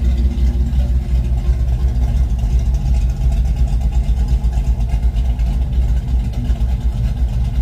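1972 Mustang Mach 1's V8, with a Crane cam and a single 3-inch exhaust through a Black Widow Venom race muffler, idling steadily. It is running well just after its ignition timing and carburettor were set.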